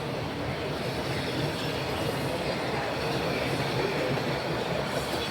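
Subway or light rail train running on the track: a steady rumble of wheels and motors.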